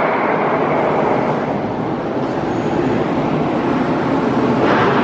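Loud, steady noise of car engines running.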